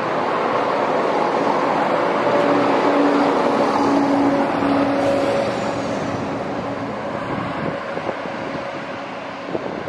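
Chiltern Railways diesel multiple unit pulling out past the platform, its engines giving a steady hum over the running noise. It is loudest a few seconds in, then fades as it moves away.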